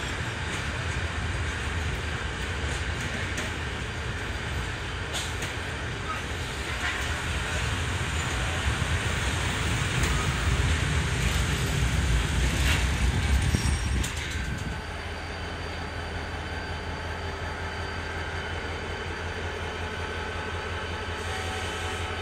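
A train running on rails: a steady rumble and rattle that grows louder until about fourteen seconds in, then drops suddenly to a lower, steady rumble. A few sharp clicks sound along the way.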